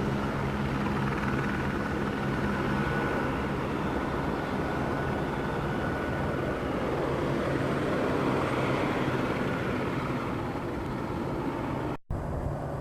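MBB Bo 105 helicopter running, a steady mix of rotor and turbine noise, with a low hum that fades after the first couple of seconds and a thin high whine for a few seconds early on. The sound cuts out abruptly for a moment near the end.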